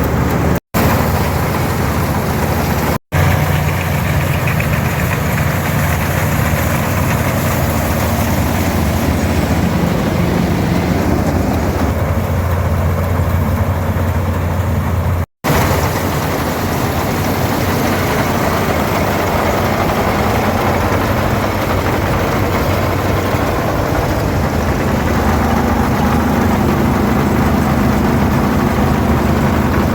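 International 460 diesel tractor running under steady load while pulling an International 82 pull-type combine, mixed with the combine's threshing machinery. The sound cuts out briefly three times.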